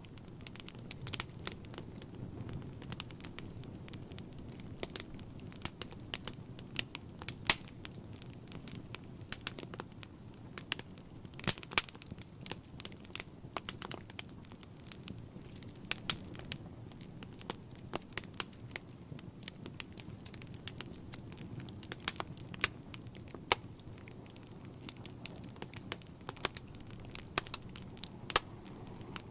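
Wood fire in a fireplace crackling and popping, with irregular sharp snaps over a low steady rumble of the flames.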